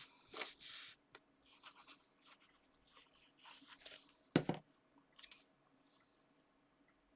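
Paper and card being handled and pressed into place: a short rustle, scattered light scrapes and ticks, and one sharp knock on the tabletop about four seconds in.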